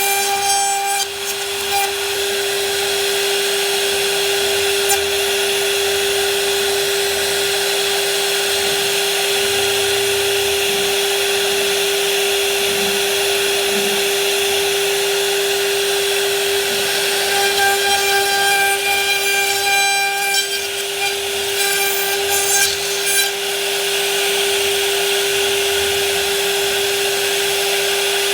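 A power tool cutting wood, its motor holding one steady high whine throughout over the rasping noise of the cut.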